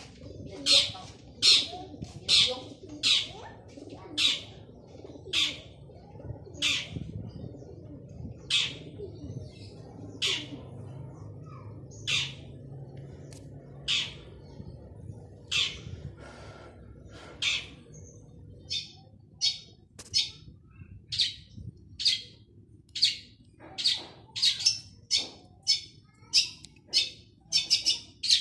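Male long-tailed shrike (cendet) calling over and over in short, sharp notes, roughly one or two a second. The calls come faster and closer together near the end.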